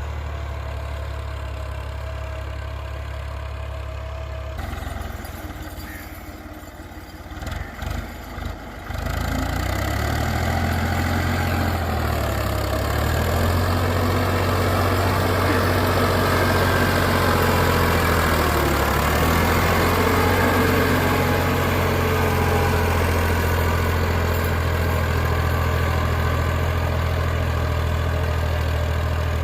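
Ford 3610 tractor's three-cylinder engine running steadily. It drops off with a few uneven surges about six seconds in, then runs louder from about nine seconds in as it works under load pulling a cultivator.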